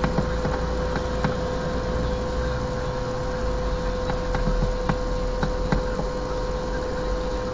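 Car engine idling at a standstill, heard inside the cabin: a steady low rumble with a constant thin whine over it and a few faint, irregular clicks.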